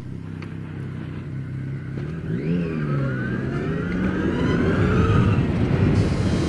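Custom-tuned Zero S electric motorcycle's motor whining and rising in pitch as it accelerates, with wind noise growing with speed.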